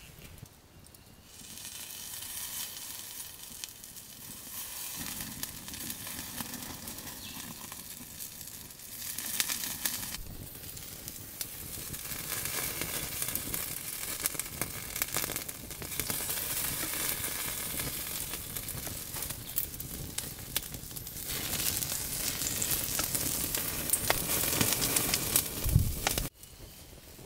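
Food sizzling in hot oil, a steady hiss full of small pops and crackles. It gets louder and softer in a few steps and cuts off sharply near the end.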